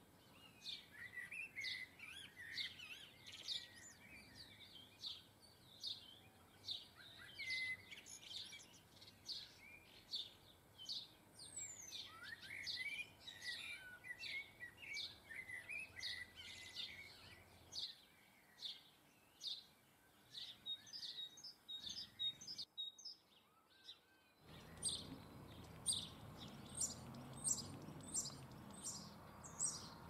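Garden birds chirping: a quick run of short, high chirps with warbling song lower down. The sound drops out briefly about three quarters of the way through, then the chirping resumes over a low background rumble.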